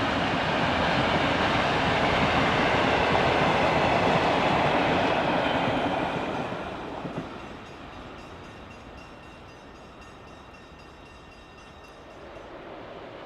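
Steam-hauled passenger train of Victorian Railways R class locomotive R761 running by, its carriages and wheels loud for about six seconds. The sound then fades away quickly as the train moves off.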